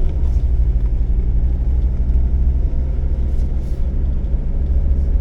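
A 1980s car's engine running at a steady idle, heard from inside the cabin as an even low rumble.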